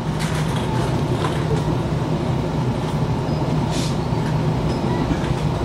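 Steady rumble of a moving passenger train heard from inside the carriage, with a few brief clicks and a short hiss about four seconds in.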